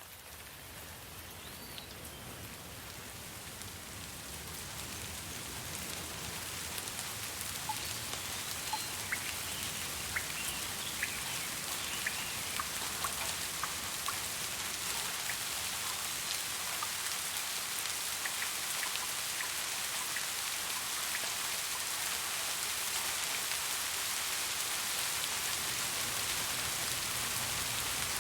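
Steady rainfall with scattered individual drops pattering on surfaces. It fades in over the first ten seconds or so, then holds even. A few faint short chirps come through in the first half.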